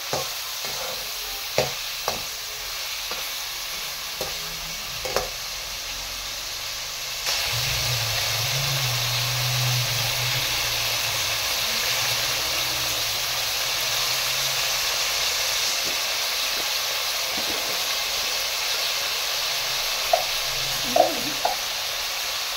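Chicken pieces sizzling steadily in hot ghee in a kadai, with a few sharp taps and scrapes of a metal slotted spatula stirring them. The sizzle gets louder about seven seconds in.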